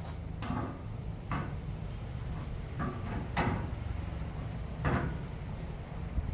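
A handful of short knocks and clanks at irregular intervals, about five in all, over a steady low hum.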